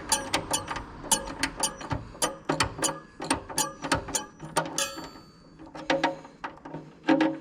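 Socket ratchet wrench clicking in repeated quick strokes as a bolt is turned, several clicks a second with a brief pause about two thirds of the way through.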